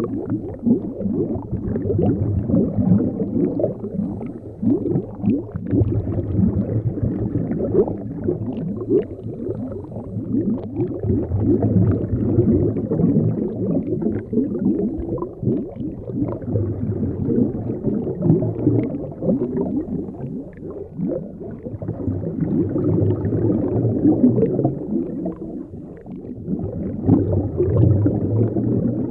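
Low, continuous underwater bubbling and gurgling: a dense, irregular crackle of small bubbles that swells and eases every few seconds.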